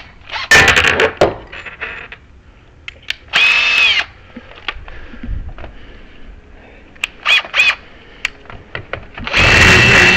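Power drill starting and stopping: a brief whir that spins up and down, two short blips, then running steadily near the end. Scattered clicks and knocks of tools and hardware being handled come between the bursts.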